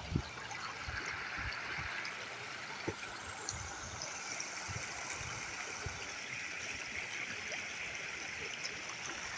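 Steady rush of flowing river water, a constant trickling stream sound.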